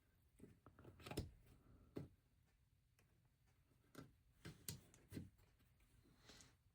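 Small plastic LEGO pieces being handled and pressed together: a scattered series of faint, sharp clicks and taps, several in a cluster about four to five seconds in.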